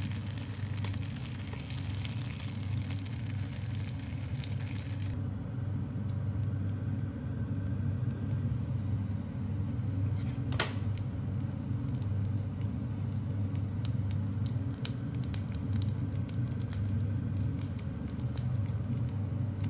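Batter-coated apple slices frying in shallow oil in a nonstick pan: a steady sizzle with scattered small pops, over a steady low hum.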